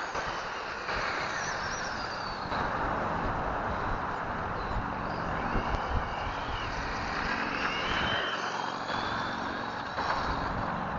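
Electric motor of an ECX Amp MT radio-controlled monster truck whining, its pitch rising and falling as the truck speeds up and slows, over a steady hiss.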